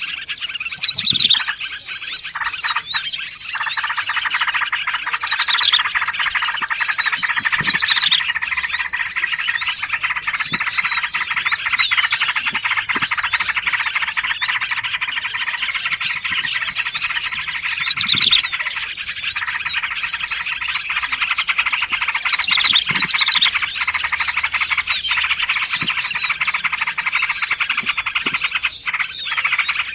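Dense chorus of many small songbirds calling and chattering at once, short rapid chirps and trills layered into a continuous wall of sound: a mixed bird-lure recording of small forest birds such as bulbuls and prinias.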